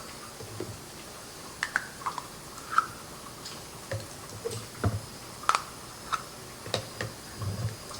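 Irregular light clicks and taps of a spoon against a measuring cup and mixing bowl while mayonnaise is scooped out and measured.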